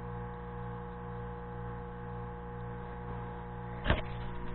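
Steady electrical mains hum with a faint tone above it, and one sharp click or knock near the end.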